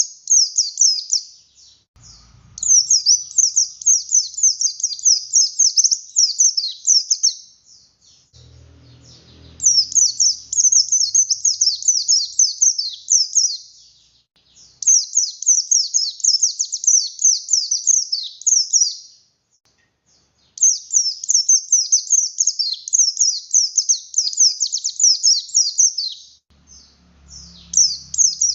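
Buxtoni white-eye singing in full song: long runs of rapid, high twittering notes several seconds each, broken by short pauses, and starting again after each.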